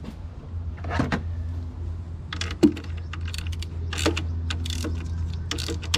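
Irregular metallic clicks and knocks of hand tools working on the alternator's bolts and fittings, over a steady low hum.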